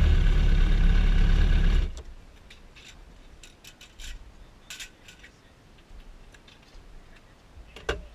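Motorcycle engine idling steadily, then switched off, cutting out suddenly about two seconds in. After that come only faint, scattered clicks and light taps.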